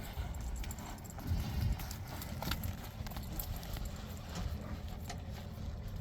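Hoofbeats of a ridden horse, scattered clicks over a steady low rumble.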